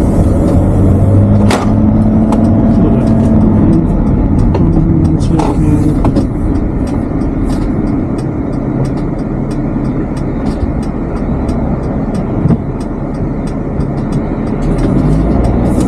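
Camper van engine and road noise heard from inside the cab while driving. From about six seconds in, a turn-signal indicator ticks steadily, about twice a second.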